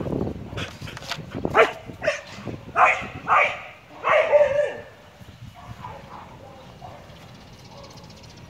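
Border collies barking, about seven loud barks in the first five seconds, then only faint quieter sounds.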